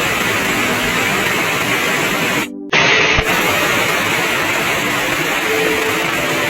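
Heavy rain falling as a steady, dense hiss. The sound cuts out for a moment about two and a half seconds in, then resumes.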